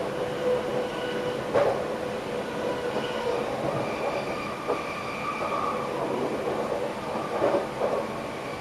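Passenger train running, heard from inside the driver's cab: a steady rumble of the train on the track, with faint thin whining tones over it and a few knocks from the wheels over the rails, the clearest about a second and a half in and more near the end.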